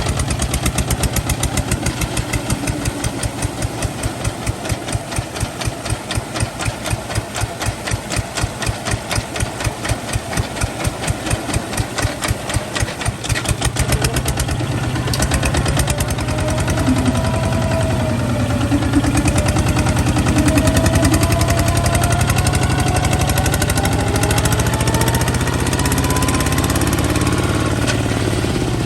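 Kubota ZT155 tractor's single-cylinder diesel engine chugging in a steady pulsing beat that quickens from about halfway. A faint whine rises slowly in pitch through the second half.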